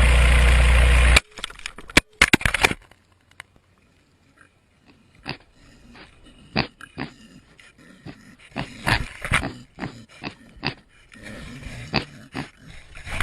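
A loud steady rush of wind on the falling camera cuts off suddenly about a second in. A few sharp knocks follow as the camera hits the ground and tumbles. After a near-quiet pause, pigs grunt close to the camera, at first now and then and more often near the end.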